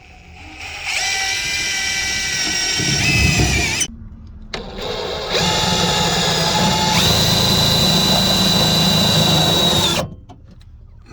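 Power drill running in two long bursts, about three seconds and then about five, with a steady high whine that steps up in pitch partway through the second burst.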